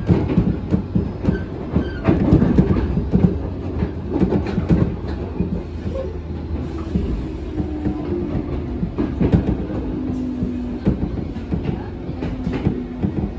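Train running over the rails, heard from inside the passenger car, with wheels clattering over rail joints and points. The knocks come dense and irregular at first, then thin out as the train slows into Moji station, and a faint low whine comes in during the second half.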